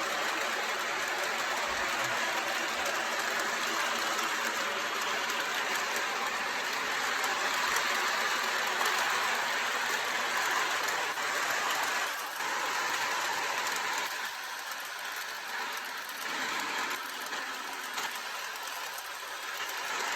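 MTH Propane Turbine O-gauge model locomotive with four motors running at about 25 scale miles an hour while hauling a long freight train: a steady whirring rush of motors and wheels on track. It is a little quieter for the last few seconds.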